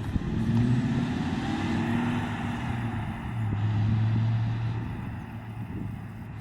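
1993 Ford Mustang Cobra SVT's 5.0-litre V8 running as the car drives along the road. The exhaust note swells twice, then fades over the last second or so as the car draws away.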